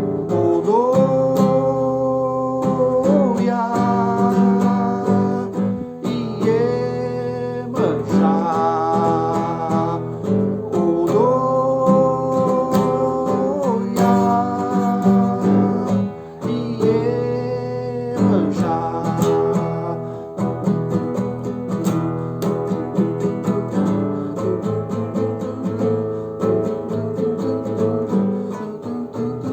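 Acoustic guitar strumming chords, with a man singing long wordless held notes over it for the first two-thirds. After that the guitar plays on alone.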